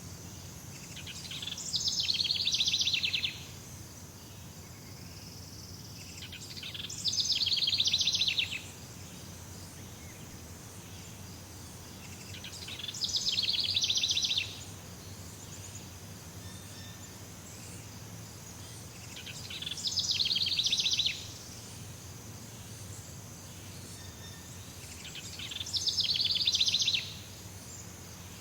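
Jungle ambience: a rapid pulsing trill, from a bird or an insect, repeats five times, about every six seconds. Each trill swells for a second or two and then cuts off sharply, over a steady high insect drone.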